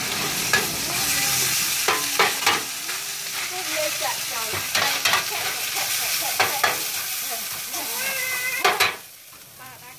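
Rice pin noodles with bean sprouts sizzling in oil on a large shallow steel pan, with a metal spatula scraping and knocking against the pan about nine times as the noodles are stirred. The sizzle drops away sharply near the end.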